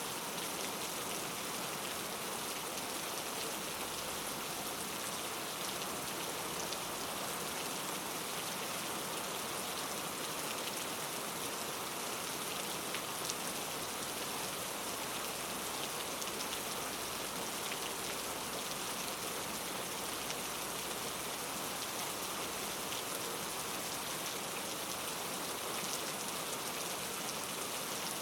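Steady rain falling and pattering on a surface, an even hiss with scattered small drop ticks.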